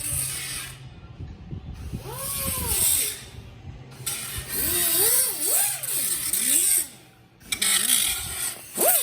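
Air-powered hand tool run in four trigger bursts with a hiss of exhaust air. Its whine rises and falls as it loads and frees up, then cuts off sharply between bursts.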